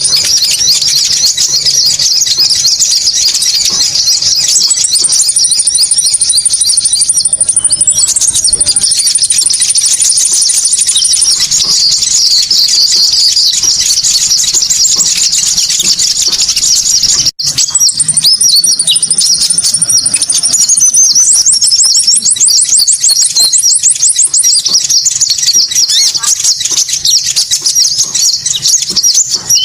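Bird-lure recording of konin birdsong: dense, rapid high chirps with a steady, high buzzing trill over them. There is a brief break about 17 seconds in.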